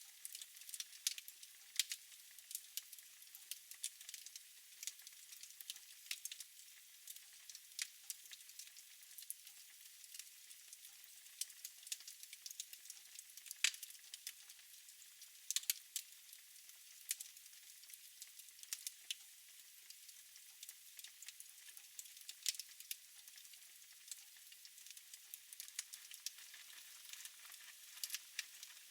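Fire crackling in a fireplace: irregular sharp pops and snaps over a soft, steady hiss.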